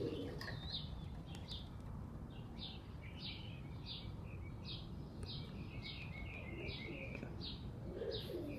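A small songbird chirping over and over, short falling chirps about one every two-thirds of a second, with faint low pigeon cooing near the end.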